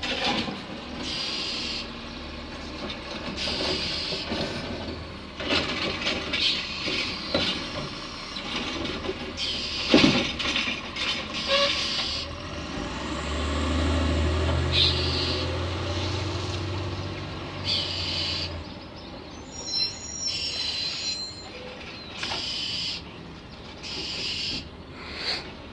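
A bird calling in short, repeated bursts, scolding, with a few thin whistled notes about twenty seconds in. A low rumble, like a train or heavy vehicle passing at a distance, swells and fades midway, and there is one sharp loud knock about ten seconds in.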